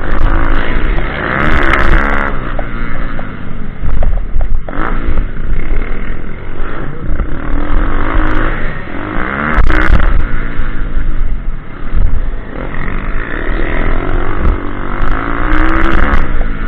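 Pitbike engine running loud and close, its revs rising and falling several times as the bike is ridden around an off-road track.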